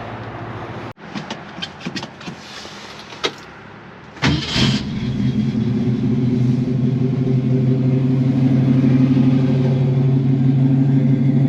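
A few clicks, then the 1964½ Ford Mustang's 260 V8 cranks briefly and catches about four seconds in. It settles into a steady idle that slowly grows louder and sounds good.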